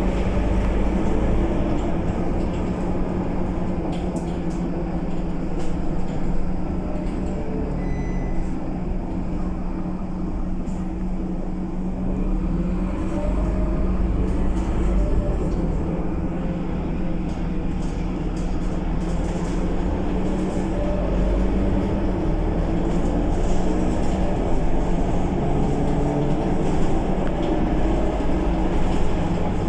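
Scania K230UB Euro V city bus running on the road, its five-cylinder diesel engine giving a steady drone over a low rumble with scattered rattles. The engine note rises and the rumble strengthens about halfway through.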